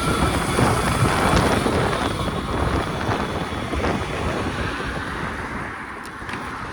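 Wind buffeting the microphone while riding, a loud rushing noise that eases a little near the end.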